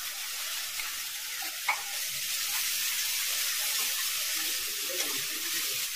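Chopped onions and ginger-garlic paste sizzling steadily in hot oil in a kadhai, stirred with a wooden spatula, with one brief knock about a second and a half in.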